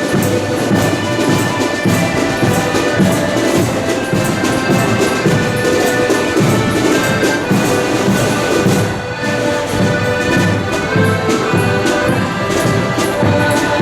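Accordion band playing: many accordions holding chords together over steadily beating drums.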